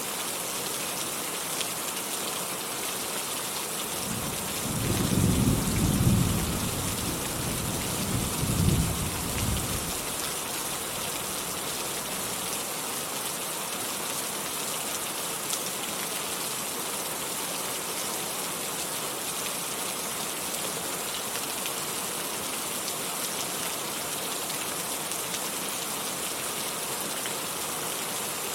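Steady heavy rain falling as an even hiss. A roll of thunder rumbles low from about four seconds in, peaking twice and fading out by about ten seconds.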